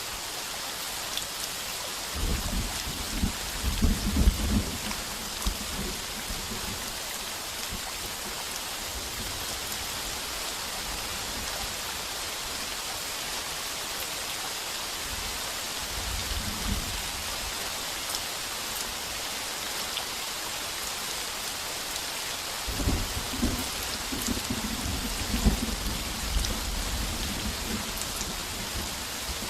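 Heavy rain pounding steadily on a tin roof, with thunder rumbling twice: a few seconds of rumble about two seconds in and again near the end, and a fainter rumble in the middle.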